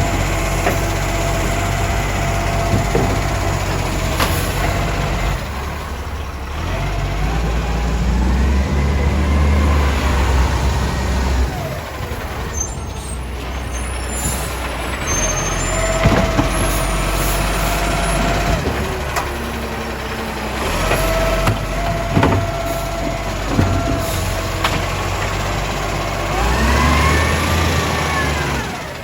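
Euro 5 diesel garbage truck working a bin pickup: the engine runs steadily and revs up twice while the lifting gear works. There are several sharp clunks, short steady whines, and air-brake hisses.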